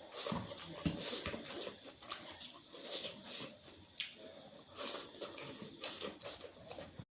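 Close-miked eating sounds: wet chewing, lip smacks and crunchy bites in an irregular run, cut by a brief dropout to silence near the end.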